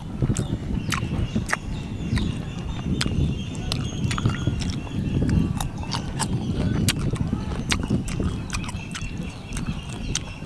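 Close-up chewing of crisp roast pork skin and cucumber: irregular sharp crunches and mouth smacks over a steady low chewing rumble.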